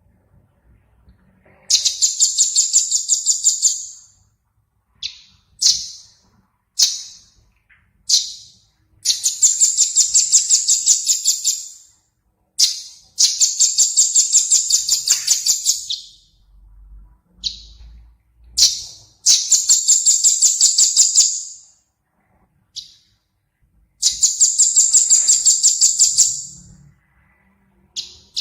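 Recorded small songbird singing in repeated high-pitched rapid trills, five of them, each lasting two to three seconds, with short single call notes between them.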